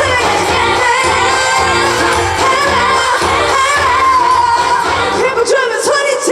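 Live pop song with a female lead vocal over a full band; the bass and drums cut out about five and a half seconds in as the song ends.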